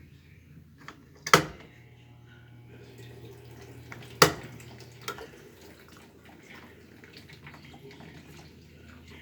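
Consul 11 kg top-load washing machine being operated: two sharp clicks about three seconds apart, with a low steady hum between them.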